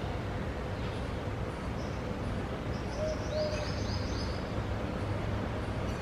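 A small bird gives a quick run of about six short, high chirps about three seconds in, over a steady low background rumble.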